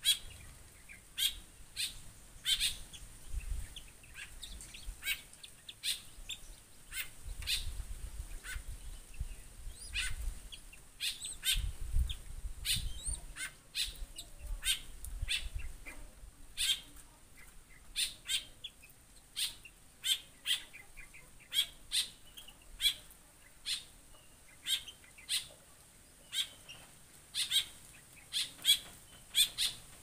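Caged small birds giving short, sharp chirps, about one or two a second, with a low rumble under them now and then in the first half.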